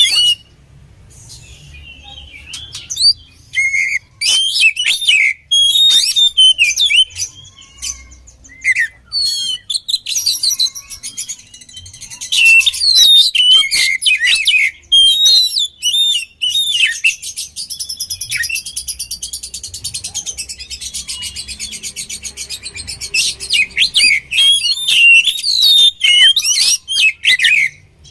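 Oriental magpie-robin (kacer) singing a loud, varied song of whistles and chirps, with a long fast trill in the middle.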